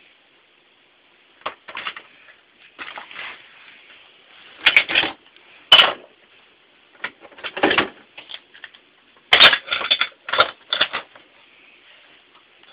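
Irregular bursts of scraping and knocking from hand-tool work on a bathroom pipe, about a dozen short strokes with a few sharp clicks among them.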